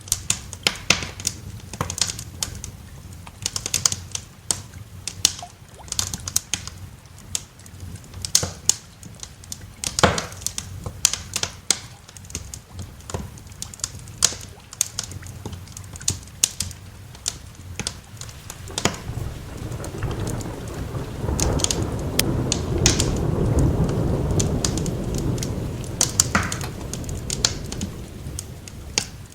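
Wood fire crackling with frequent irregular pops and snaps. In the second half a long low rumble of thunder swells, peaks and fades over several seconds.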